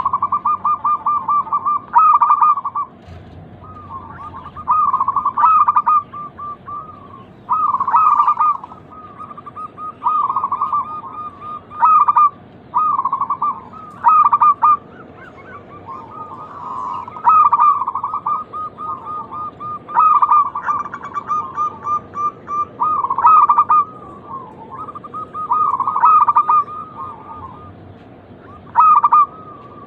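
Zebra doves (perkutut) cooing: a steady run of song phrases, each a quick, rapid string of pulsed coos lasting about a second, repeated every two to three seconds, sometimes overlapping.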